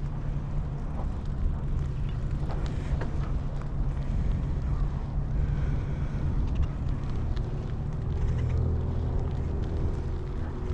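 Wind buffeting the microphone during a bicycle ride: a steady low rumble with faint ticks and rattles.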